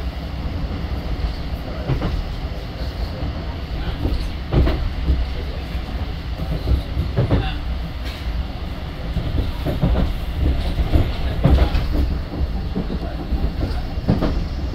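Electric tram running along its track, heard from inside the car: a steady low rumble with irregular knocks and rattles from the wheels and the body.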